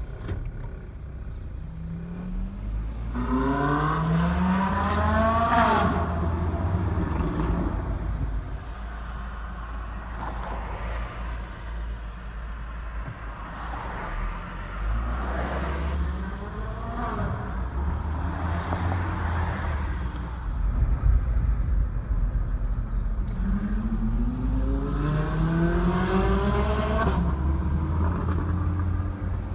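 Ferrari 458 Italia's naturally aspirated V8 accelerating hard several times, its pitch rising with each run. The strongest runs come about three seconds in and again near the end, over a steady low rumble.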